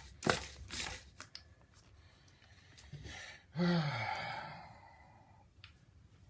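A few short rattling strokes of a nitro RC engine's pull-start, with no sign of the engine catching, then a man's loud groaning sigh that falls in pitch and fades, about three and a half seconds in.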